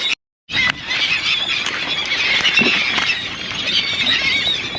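A flock of seabirds calls over the boat: many high, wavering squealing calls overlap without pause. The sound cuts out completely for a moment just after the start.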